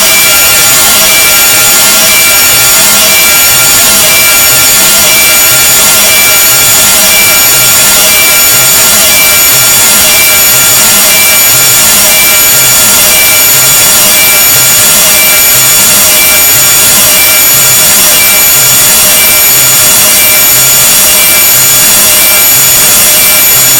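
Harsh, grating noise sound effect, very loud and unbroken, with a stack of steady shrill tones over a rasping hiss and a low throb repeating underneath.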